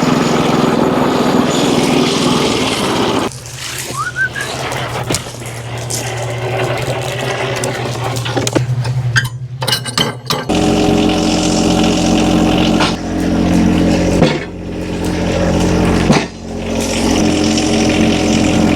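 An engine runs steadily with a constant low hum. Its pitch and loudness change abruptly several times, about 3, 10, 14 and 16 seconds in.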